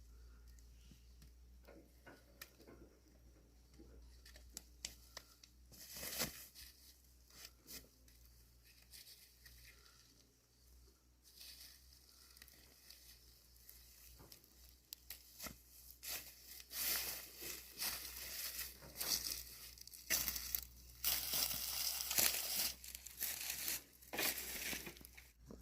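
Irregular rustling and crinkling with scattered light clicks, growing denser and louder about two-thirds of the way in.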